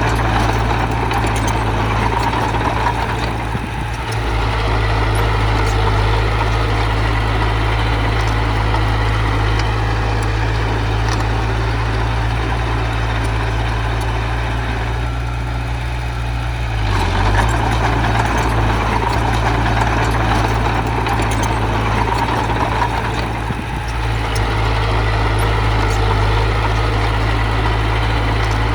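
Diesel engine of heavy earthmoving machinery running steadily, with the level dipping briefly twice.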